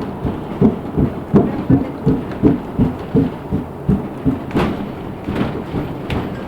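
Inside a moving LiAZ 6213.65 articulated city bus: a regular low thumping, about three beats a second, that fades about two-thirds of the way through, with a few sharp clicks near the end.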